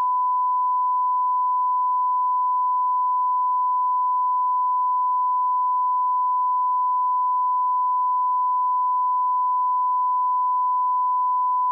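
Steady 1 kHz sine-wave reference tone at −18 dB, the line-up tone of an audio test signal, holding one unbroken pitch at constant level.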